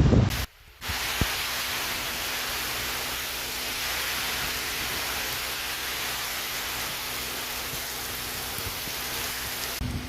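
Heavy storm rain falling as a steady, even hiss, starting after a brief dropout just under a second in.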